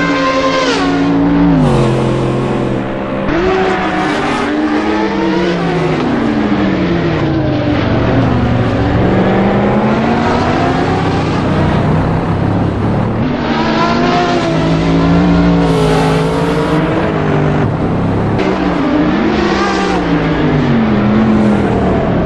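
High-performance car engine at racing speed on a track, its pitch repeatedly climbing and then dropping sharply through gear changes and slowing.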